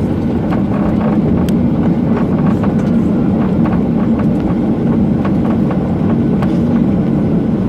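Cabin noise inside a Boeing 737-800 with CFM56 engines: a steady low rumble of engines and airflow, with scattered small clicks and rattles.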